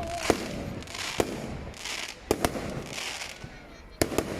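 Fireworks going off: about half a dozen sharp bangs, some in quick pairs, with crackling hiss between them.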